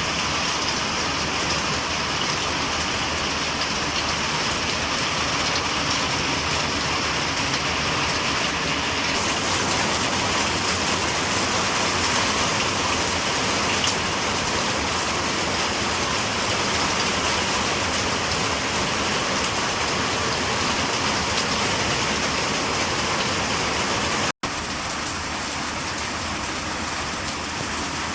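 Steady rain falling and pattering on surfaces, an even hiss with no let-up. It cuts out for an instant near the end and resumes a little quieter.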